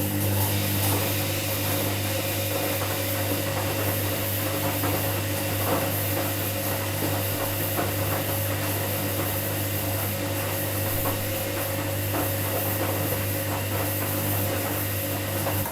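Washing machine running: a steady low motor hum under a hiss, with light rattling. It cuts off suddenly at the end.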